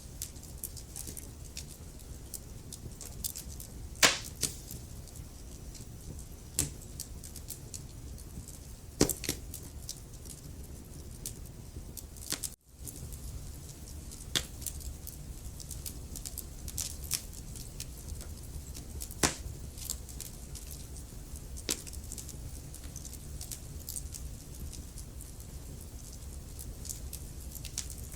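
Wood fire crackling, with frequent small snaps and a few loud pops over a steady low rumble of the flames. The sound cuts out for an instant about halfway through.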